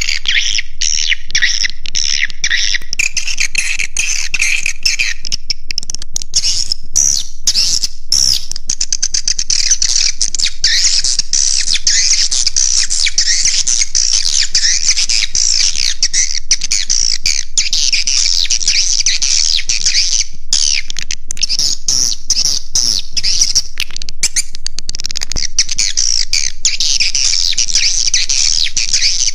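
Swiftlet roosting call recording: a dense, unbroken chorus of high, quick chirps and twitters from many swiftlets, the kind of lure sound played to draw swiftlets into a nest house.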